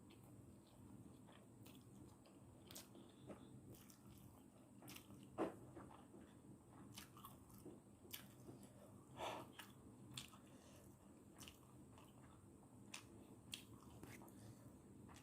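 Faint chewing and scattered mouth clicks of a person eating instant noodles, with two louder smacks about five and nine seconds in.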